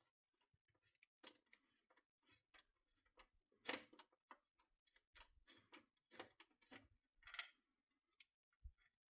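Near silence with a few faint, scattered clicks and taps, the clearest about a third of the way in and again about three quarters of the way in.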